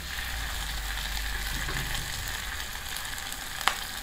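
Finely chopped frog and chili paste sizzling in a hot blackened wok as a dark sauce is poured in, with a single sharp click near the end.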